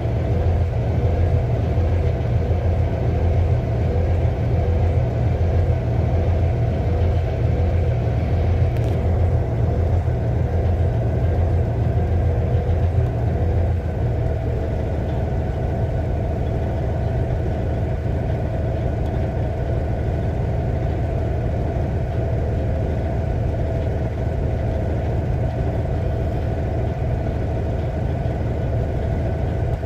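2006 Cummins ISX inline-six diesel engine (CM870 control module) idling with an uneven, lumpy low rumble: a rough idle. About halfway through, the idle evens out and gets slightly quieter.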